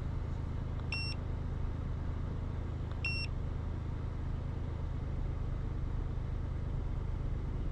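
Two short electronic beeps from an OBD2 scan tool as it reads the trouble codes, about a second and about three seconds in, over a steady low hum.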